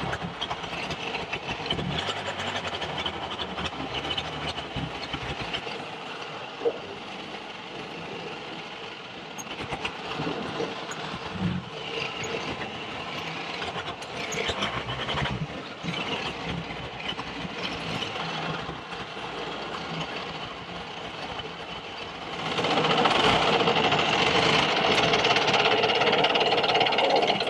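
Long-tail boat engine running steadily, growing louder about three-quarters of the way through as it speeds up or comes closer.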